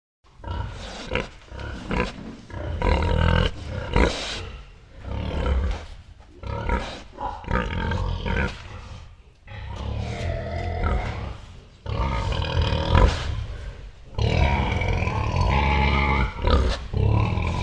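Pigs grunting: a run of rough grunts, some short and some drawn out, starting suddenly and going on without a break.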